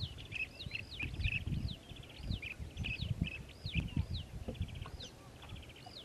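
A bird calling: a fast series of high, arched, whistled notes, about two a second, broken by short rapid trills of dry ticks. A low gusty rumble runs underneath.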